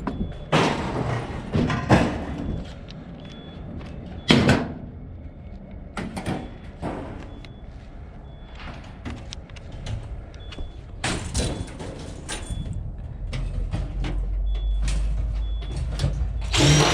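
Metal clanks, knocks and scraping from the sheet-metal panels and parts of a dryer being handled and pulled apart, with one sharp loud knock about four seconds in. A low steady hum comes in past the middle.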